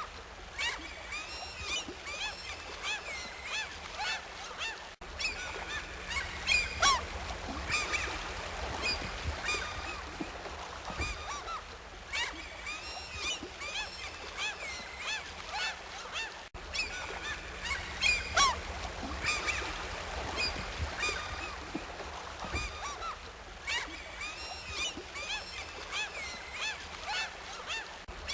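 Many birds calling over one another: a dense, continuous chorus of short, curving calls, with two brief drop-outs about five and sixteen seconds in.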